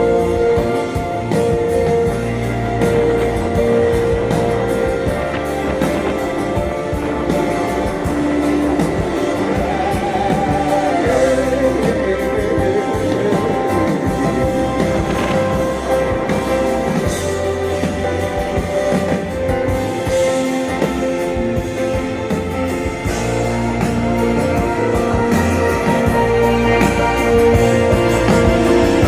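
Live rock band playing an instrumental passage, with guitar over a steady bass.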